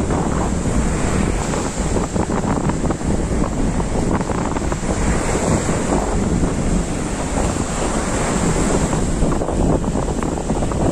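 Sea waves breaking on the shore, mixed with strong wind buffeting the microphone; a steady loud rush with no clear single wave.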